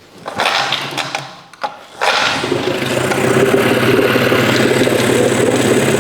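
A 1986 Mercury outboard motor is pull-started: uneven cranking noise, then about two seconds in it catches and runs at a steady idle. The owner suspects a fuel delivery problem in this engine.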